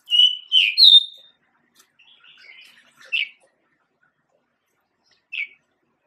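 Male pied bushchat singing: a loud phrase of three quick whistled notes, then a softer scratchy warble about two seconds in and a short single note near the end.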